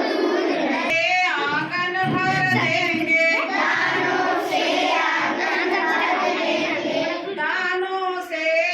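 Young voices singing a Hindi children's poem about the baya (weaver bird), a sung melodic line that carries on without a break.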